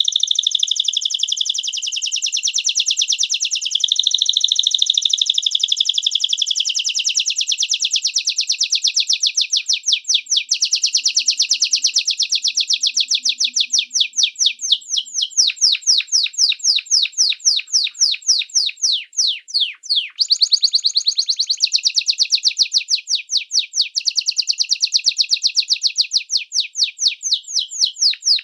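A small songbird singing continuously at high pitch. A fast, dense trill breaks up after about ten seconds into rapid repeated downward-sweeping whistles, many a second, then returns as a dense trill just after a brief pause near twenty seconds.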